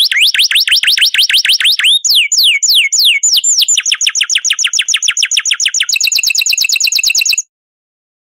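A songbird singing a fast, varied phrase: rising whistled notes about seven a second, then falling slurs, then rapid trills, breaking off suddenly about seven seconds in.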